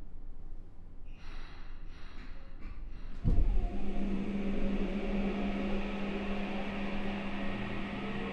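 Saitama Railway 2000 series electric train at a station stop: the doors close with a loud thud about three seconds in, then a steady low hum. Near the end, rising tones from the Mitsubishi IGBT VVVF inverter start as the train begins to pull away.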